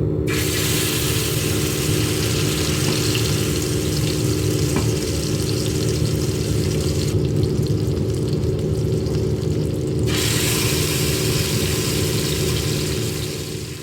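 A steady low motor-like rumble and hum with a hiss over it; the hiss stops abruptly for about three seconds in the middle, then comes back.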